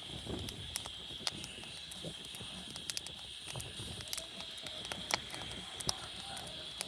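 Wood fire crackling, with irregular sharp pops about once or twice a second over a low rumble, and a steady high-pitched hum running underneath.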